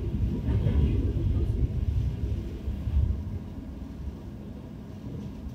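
DB Class 628 diesel railcar running, a heavy low rumble of engine and running gear heard from on board, easing off over the last couple of seconds.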